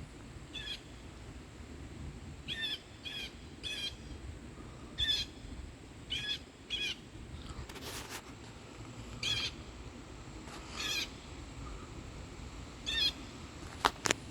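A bird calling about ten times in short, repeated calls, spaced a second or so apart. Two sharp clicks near the end.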